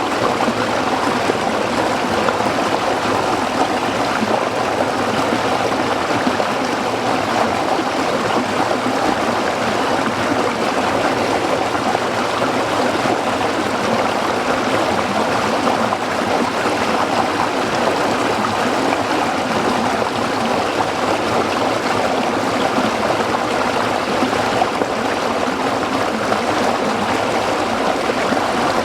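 A small stream flowing steadily over rocks, a continuous babbling rush of water.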